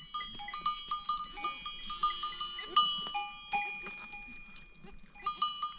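Bells on a flock of goats and sheep clanking irregularly as the animals move, several bells of different pitches ringing on over one another.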